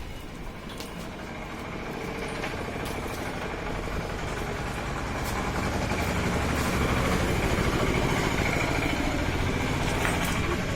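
A vehicle engine running steadily, growing louder over the first six seconds and then holding.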